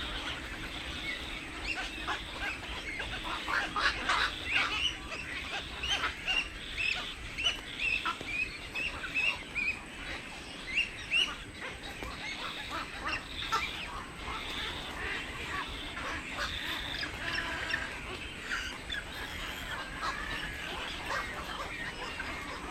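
Many birds calling at once: a dense chatter of short, overlapping calls, with a quick run of repeated calls in the middle.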